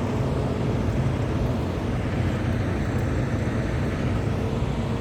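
A vehicle engine running steadily, with a constant low hum and no change in pitch.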